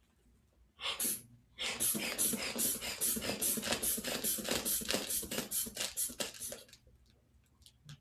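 Sphygmomanometer inflation bulb squeezed rapidly, about five puffs of air a second for about five seconds, pumping up the blood pressure cuff. A few faint clicks follow near the end.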